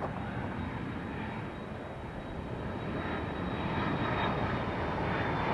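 McDonnell Douglas MD-80 jetliner on approach, its rear-mounted Pratt & Whitney JT8D turbofans running as a steady rumble that grows louder from about two seconds in as the jet comes nearer.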